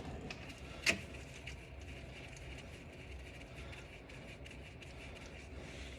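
Hand tools working on the starter: one sharp metallic clink about a second in, then a few faint ticks over a low steady hum.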